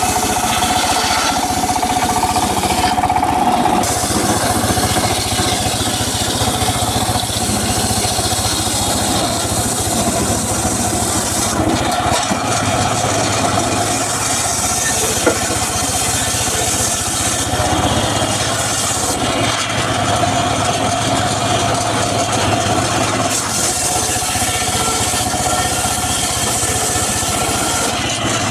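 Engine-driven mobile circular saw running steadily while cutting teak. The saw has a steady whine that fades in the middle stretch and comes back in the second half, over a constant engine hum.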